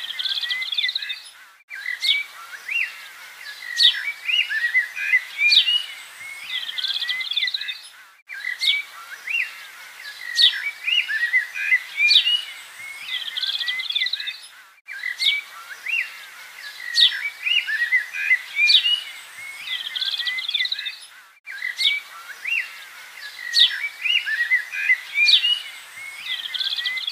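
Several birds chirping and trilling, a looped birdsong recording: the same passage of song repeats about every six and a half seconds, with a brief dropout where each repeat joins.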